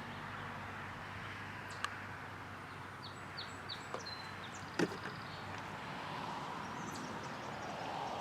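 Steady outdoor background hiss with a few light knocks. The sharpest knock comes near the middle. A bird gives a short series of quick high chirps about three seconds in.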